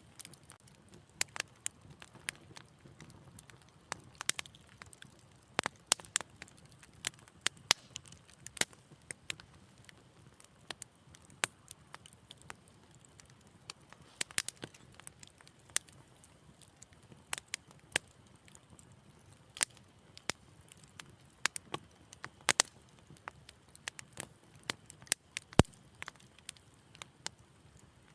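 Wood fire crackling in a fireplace: irregular sharp pops and snaps, several a second, over a faint low rumble of the flames.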